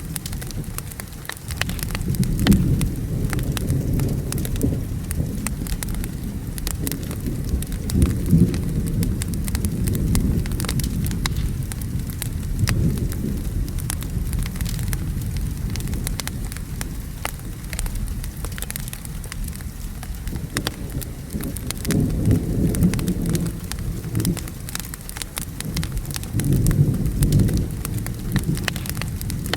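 Steady rain and a crackling wood fire, with rolling thunder rumbling in low swells several times, the strongest about 2, 8, 22 and 27 seconds in.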